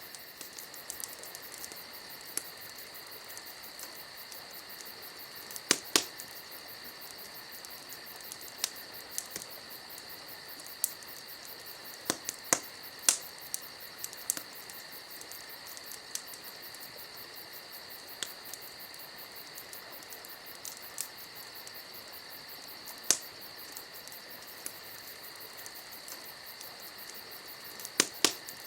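Crickets chirring steadily in a continuous high-pitched trill, over a wood campfire giving occasional sharp pops and crackles, some in quick pairs.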